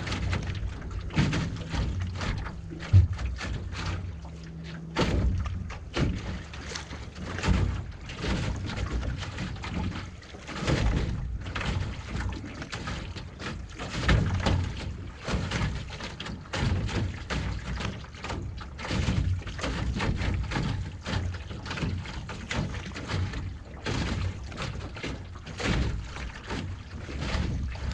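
Canoe being paddled: water splashing and sloshing in irregular surges with the paddle strokes, and now and then a knock of wood on the hull.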